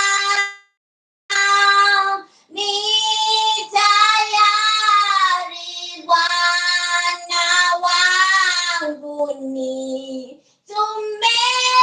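A high solo voice singing without accompaniment: long held notes in short phrases, with two brief gaps of dead silence, one near the start and one near the end.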